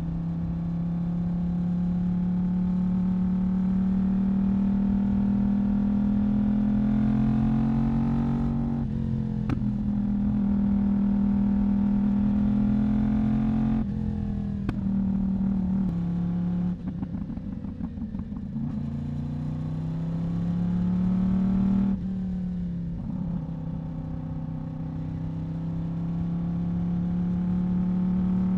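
Yamaha YZF-R1 inline-four sport-bike engine and exhaust running under way, its note climbing slowly with the revs and then dropping back sharply several times.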